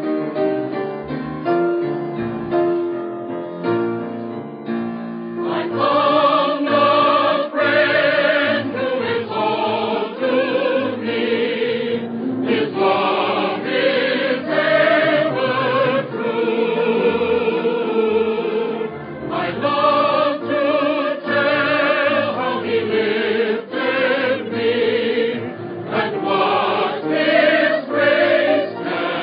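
Piano playing alone, then a mixed choir comes in about five seconds in, singing a gospel hymn with the piano.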